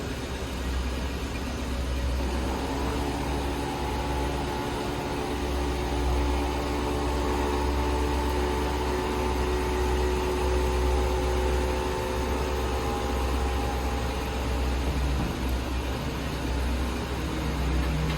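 The 1965 Ford Thunderbird's 390 V8 engine running steadily with a low rumble. A set of steady higher tones joins it about two seconds in and fades out a few seconds before the end.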